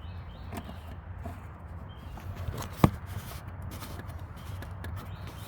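Faint handling and shuffling noises over a steady low hum, with one sharp click about three seconds in.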